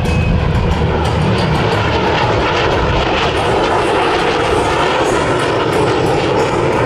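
Lockheed Martin F-35B's Pratt & Whitney F135 jet engine running loud and steady, a dense continuous rushing noise. The aircraft has been converted to STOVL mode, with the lift fan doors open and the main exhaust nozzle rotated down.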